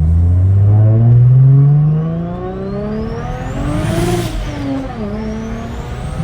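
A BMW 335i's single-turbo N54 inline-six accelerating hard, its revs climbing for about four seconds. There is a brief hiss and dip in pitch at a gear change, then the revs climb again. A thin turbo whistle rises with the revs, the engine running on a boost map said to give about 20 PSI.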